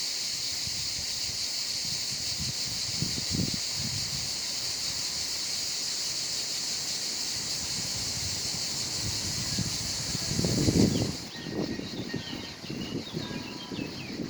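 Outdoor ambience: a steady high hiss that stops abruptly about eleven seconds in, with gusts of wind buffeting the microphone.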